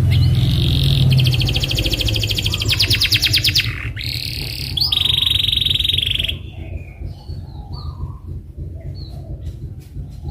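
Domestic canary singing, with fast rolling trills and a rapid rattling trill in the first half, then softer scattered chirps.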